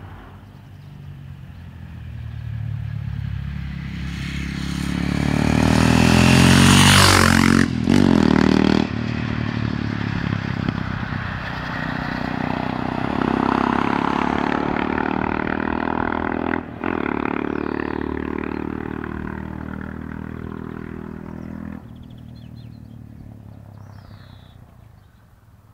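KTM 640 Duke II's single-cylinder LC4 four-stroke engine through an Akrapovic slip-on exhaust, approaching under acceleration, passing loudest about seven seconds in with a couple of brief cut-outs, then pulling away with a gear change and fading into the distance.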